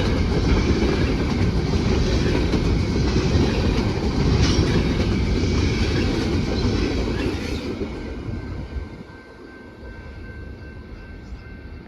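Freight train cars rolling past on the rails: a steady heavy rumble with clattering wheel noise. After about seven seconds it fades to a much quieter rumble with a faint thin steady tone.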